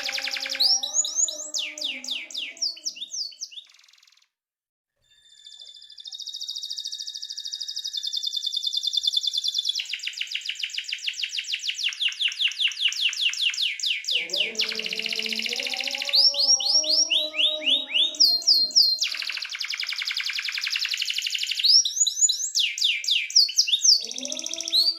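Domestic canary singing: long rapid trills of repeated notes and rising sweeps, high-pitched, broken by a brief pause about four seconds in.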